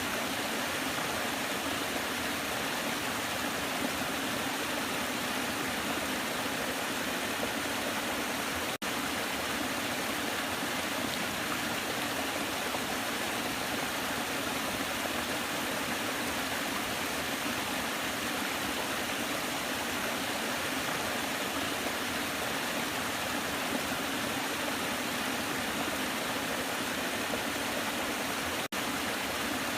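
Waterfall rushing steadily, with two momentary dropouts in the sound, about nine seconds in and near the end.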